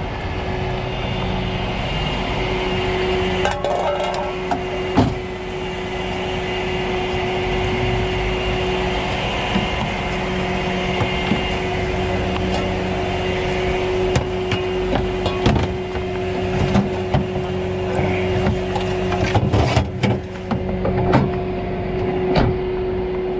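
Vehicle engine running steadily with a constant hum, and irregular knocks and clanks scattered over it, several close together near the end.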